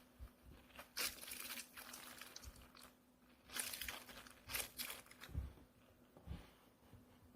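Plastic packaging crinkling and rustling in several short bursts as it is handled and opened, with a couple of soft low thumps near the end.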